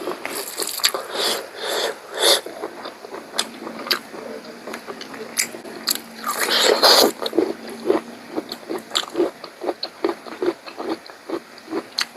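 Close-miked mukbang eating of pork rib curry: wet biting and chewing mouth sounds. About seven seconds in there is a louder noisy burst, then steady chewing at about two to three chews a second.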